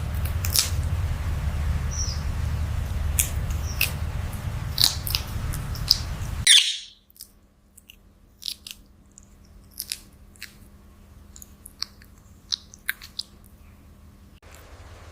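A parrot biting and chewing, a run of sharp clicks and crunches. About six and a half seconds in there is a brief loud high call; after it the clicks go on more quietly.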